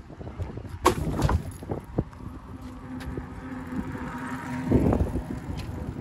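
A motor engine humming steadily and swelling about five seconds in, with a few sharp knocks in the first two seconds.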